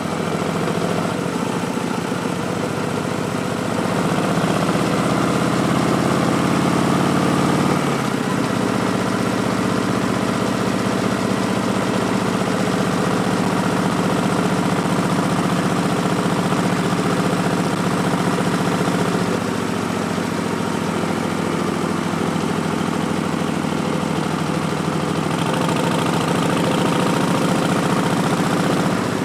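Harley-Davidson Street Bob's Milwaukee-Eight V-twin running through Vance & Hines Twin Slash slip-on mufflers while riding. The engine note rises and gets louder about four seconds in, drops back around eight seconds in, and picks up again near the end.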